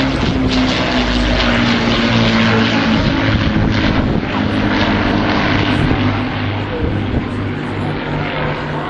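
Avro Lancaster bomber's four Rolls-Royce Merlin piston engines running together: a steady, loud drone of stacked engine tones over a rushing noise, easing slightly near the end.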